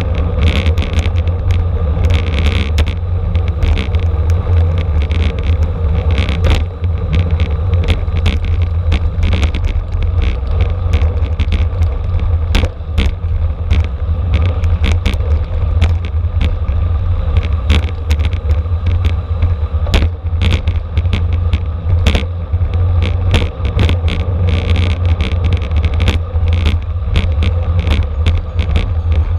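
Wind rushing over the microphone and road rumble from a camera riding on a racing bicycle at speed, a loud steady roar with many sharp clicks and knocks from bumps in the pavement.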